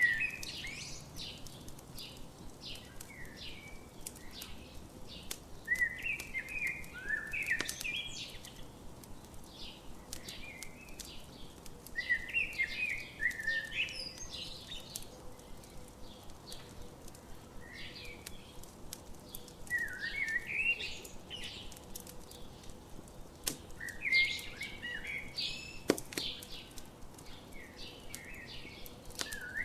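A songbird singing a short warbling phrase that repeats every five or six seconds, over the sparse snaps and pops of a crackling campfire.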